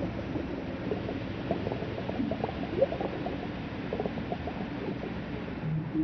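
Deep-underwater ocean ambience: a steady low wash with bubbling, gurgling and many short rising squeaks. A low steady hum starts just before the end.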